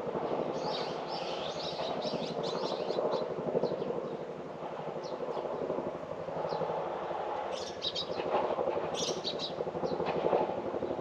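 Small birds chirping in clusters of quick, short high calls over a steady low rumble.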